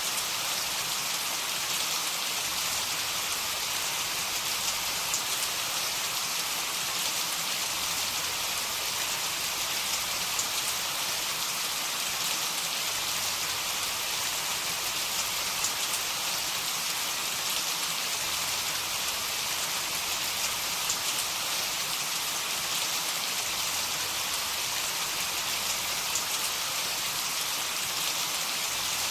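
Heavy rain falling steadily: an even hiss with a faint patter of individual drops.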